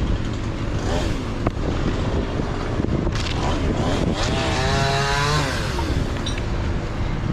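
Strong wind buffeting the microphone, with a small engine revving up and down for about a second and a half midway before falling away.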